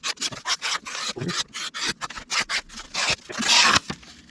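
Rapid short scraping strokes of a knife blade, about four to five a second, with one longer, louder rasp about three and a half seconds in.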